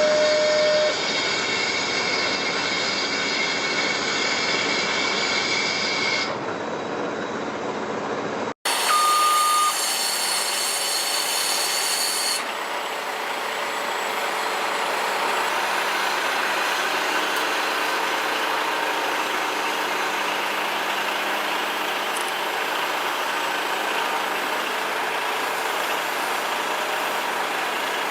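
A truck running steadily, heard in two stretches joined by a sudden cut, with a short steady beep near the start of each stretch.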